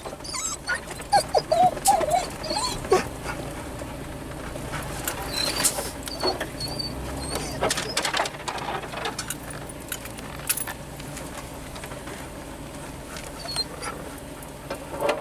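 Golden retriever whining in short, wavering high-pitched whines inside a truck cab, over the steady low rumble of the truck driving slowly on a rough track, with scattered knocks and rattles.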